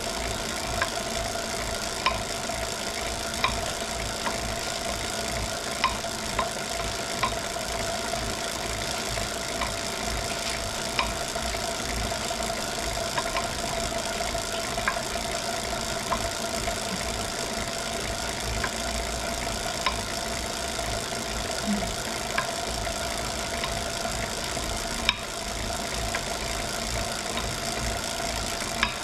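Wahoo Kickr Core smart bike trainer running with a steady whine, and a sharp knock coming through it at uneven intervals of about one to two seconds. The knock is an unwanted fault in the trainer.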